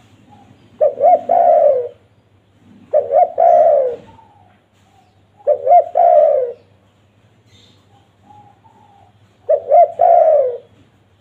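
Spotted dove (tekukur) cooing: four phrases a few seconds apart, each two short coos followed by a longer coo that falls in pitch.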